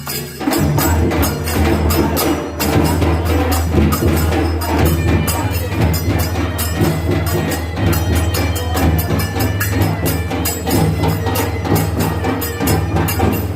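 Traditional folk percussion music, with fast, dense clattering and jingling strikes over a steady low hum.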